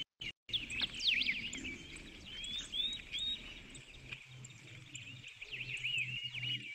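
Small birds chirping: many short, quick calls that rise and fall, with a faint low hum coming in about halfway through.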